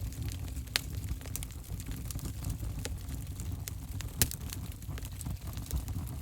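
Open fire in a fireplace crackling, with frequent sharp pops over a low steady roar of the flames; the loudest pop comes about four seconds in.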